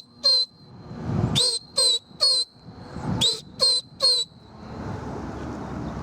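A person whistling shrill short blasts in quick groups of three, repeated, a signal used to push a flock of pigeons up into flight.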